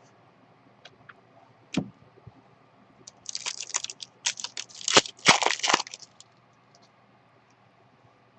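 A trading-card pack's wrapper being torn open and crinkled: a single click, then about two and a half seconds of crackling rustle.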